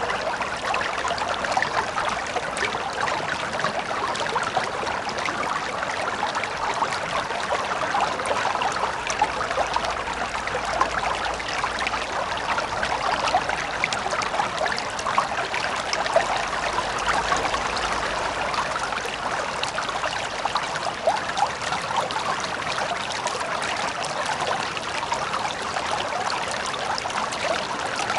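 River water running over stones, a steady babbling and trickling with many small splashes.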